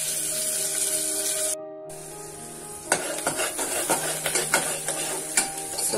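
Chopped onions and chillies sizzling in hot oil in an aluminium pressure cooker. From about three seconds in, a ladle stirs them, clicking and scraping against the pot. The sound drops out briefly about a second and a half in.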